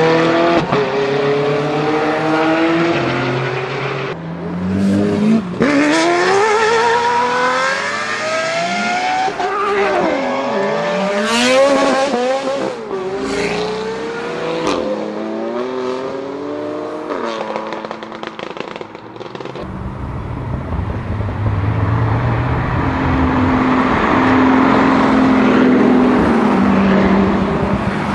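High-performance supercar engines revving hard and accelerating, pitch climbing and dropping back at each gear change, in several back-to-back clips of different cars. Near the end a group of cars runs together with a deeper, steadier engine sound.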